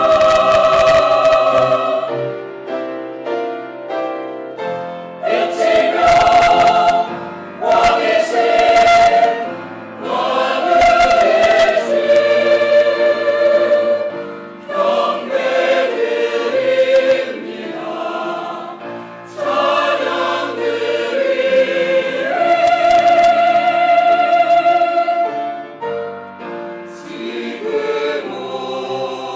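Church choir singing a Christmas cantata number with accompaniment. Loud full-voiced passages alternate with softer stretches where the accompaniment carries on.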